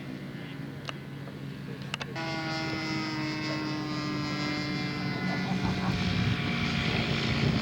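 Radio-controlled scale model airplane engine running steadily, with a stronger, higher engine tone coming in about two seconds in and growing louder toward the end. A couple of sharp clicks just before that.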